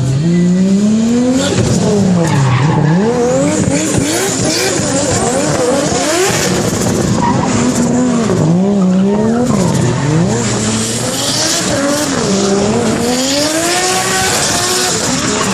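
Car engine revving up and down repeatedly under hard throttle while its tyres squeal and skid in a drift.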